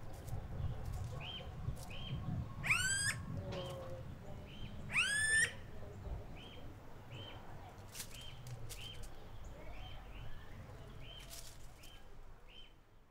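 Birds calling: a steady run of short chirps, about two a second, with two louder rising calls about three and five seconds in, over a low rumble; it fades out at the end.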